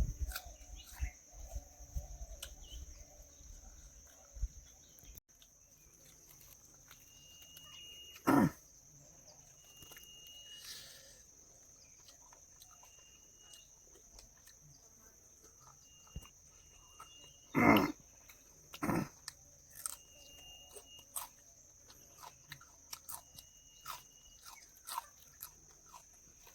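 Man chewing and eating chicken liver and gizzard curry by hand, with many small mouth clicks throughout. Three louder brief mouth sounds come about a third of the way in and twice close together about two-thirds of the way in.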